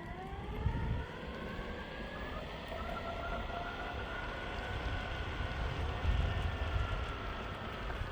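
Meepo Hurricane electric skateboard motors whining, rising in pitch over the first couple of seconds as the board speeds up, then holding nearly steady. Under the whine is a constant low rumble of the honeycomb wheels rolling on pavement.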